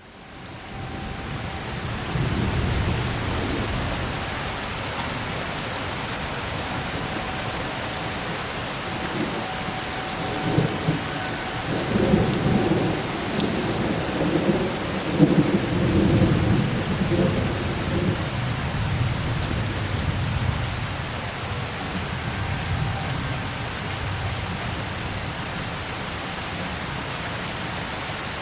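Steady rain falling, fading in at the start, with a long roll of thunder rumbling through the middle.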